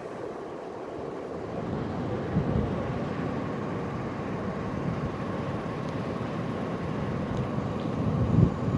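Outdoor wind noise, a steady rush with low gusts buffeting the microphone about two and a half seconds in and again near the end.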